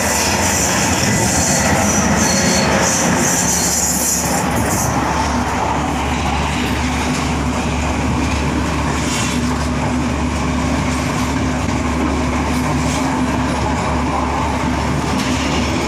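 Train running noise heard from an open carriage window: wheels rumbling on the rails with a high wheel squeal for the first five seconds or so. A steady low diesel-engine drone runs underneath as another train passes close alongside.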